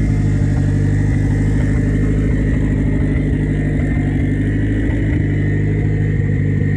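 Mitsubishi Mirage/Evo 3 conversion's 4G63 engine running loud and steady at idle.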